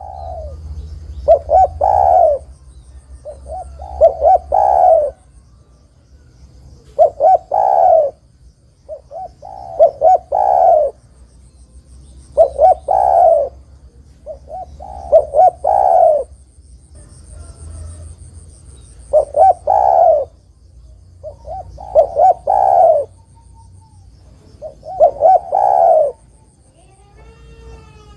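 Spotted dove (derkuku) cooing: a repeated phrase of a few short coos ending in a longer, louder coo, about every three seconds, nine times.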